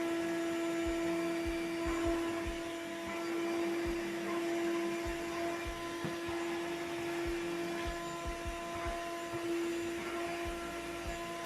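Rainco RVC618 12-volt handheld car vacuum cleaner running at a steady motor whine while sucking up scraps of paper, with scattered small ticks.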